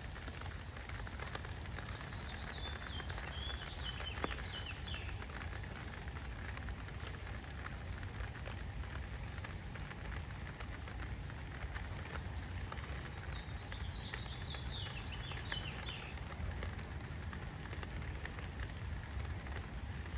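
Light rain falling on a tent canopy overhead, a steady hiss with many small drop ticks. A bird sings two short phrases of quick, stepped high notes, about two seconds in and again near fourteen seconds.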